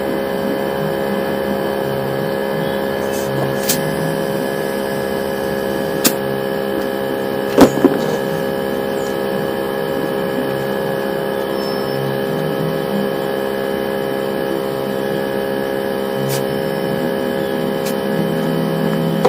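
A steady machine hum made of several overlapping tones, broken by a few sharp clicks, the loudest about seven and a half seconds in.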